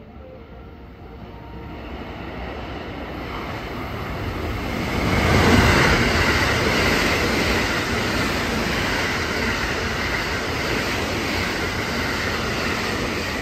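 A JR West 683-series limited express electric train passing through a station at speed. The rush of wheels on rail and running gear builds as it approaches and is loudest about five and a half seconds in as the front car goes by. It then holds as the long train of cars runs past, and begins to fall away at the very end.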